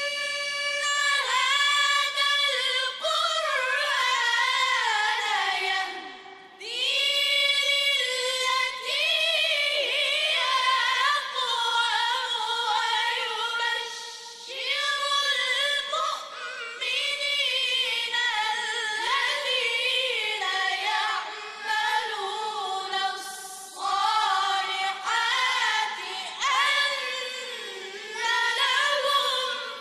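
A child's high voice singing a song unaccompanied, in phrases with short breaks for breath.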